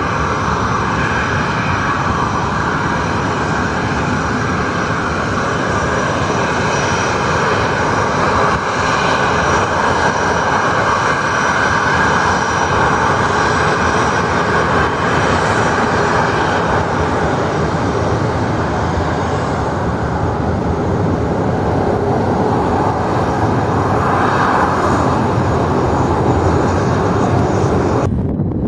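Airliner engines running loud and steady, a dense roar with no spoken words over it. The sound cuts off abruptly near the end.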